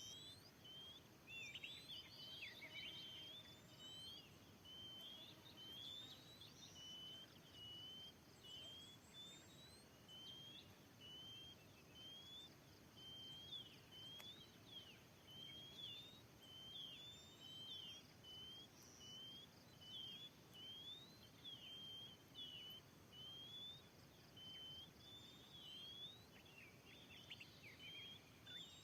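Oriental magpie-robin (kacer) calling: a long run of short, high whistled notes that slur up or down, about one or two a second, faint against outdoor hiss.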